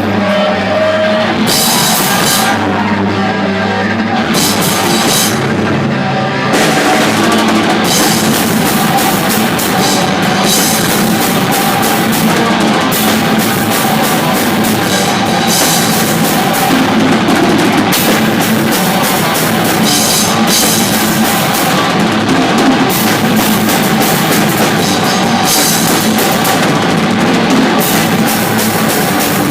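Rock music with a heavy-metal edge, with a full drum kit and bass drum; a sparser opening turns into the full, louder band about six seconds in.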